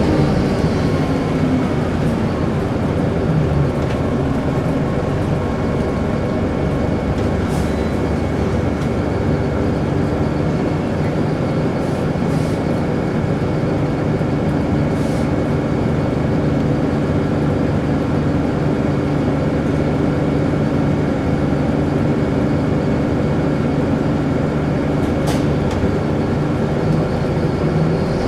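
Bus engine running steadily at an even speed, with a steady high whine from the drivetrain over the engine.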